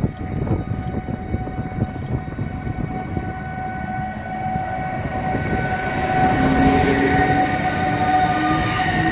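Freight train running through a station: a steady rumble with a sustained high tone, a few sharp clicks in the first seconds, and a lower whine rising in pitch as it grows louder over the last few seconds.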